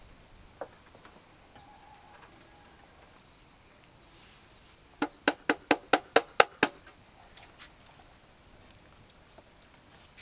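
Knife chopping on a board: a quick run of about eight sharp strokes, about five a second, about halfway through. Behind it is a steady high chirring of insects.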